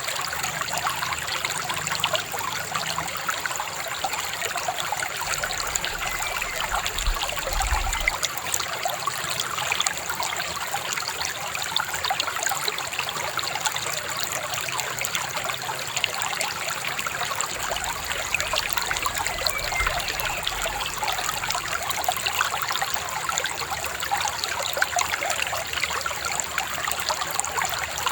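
Shallow river babbling and trickling steadily over stones.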